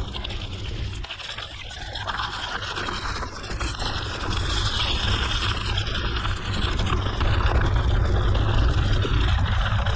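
Mountain bike ridden on a gravel forest road: tyres scraping and crunching over the gravel, with wind rumbling on the camera microphone, louder in the second half.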